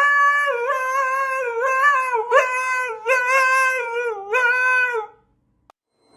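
A dog howling in a run of long, wavering howls with short breaks, stopping about five seconds in.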